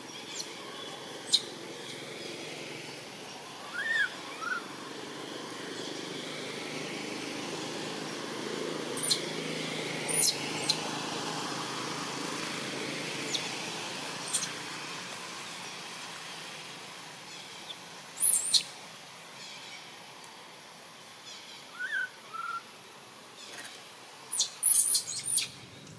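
Short, high bird chirps every few seconds over a steady outdoor background hiss, with two brief falling squeaks lower in pitch.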